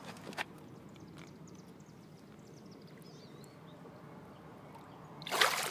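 Steady flow of creek water, with a faint wavering bird call about three seconds in and a short, loud burst of noise near the end.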